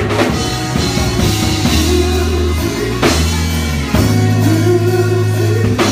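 Live gospel band music: drum kit and held bass notes that change every second or so, with guitar or keyboard chords above.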